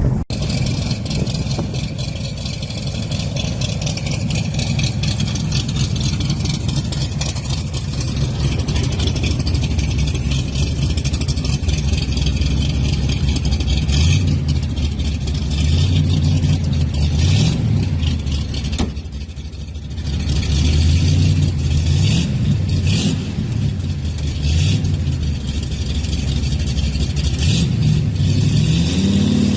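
Shelby Cobra 427's V8 running at idle, then revved repeatedly in the second half, its note rising and falling with each blip.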